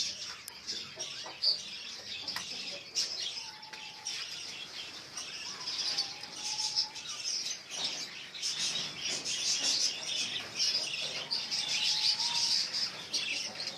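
A group of small pet birds chirping and twittering continuously in a high, busy chatter, with a few faint, lower whistled notes now and then.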